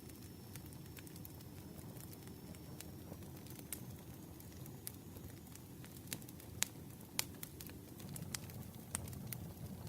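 Campfire burning with a low steady rumble and irregular sharp crackles and pops, two louder pops a little after the middle.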